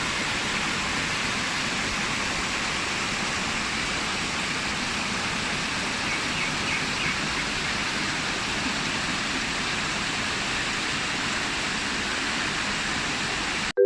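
Steady rushing of stream water, an even hiss-like rush that cuts off abruptly at the very end.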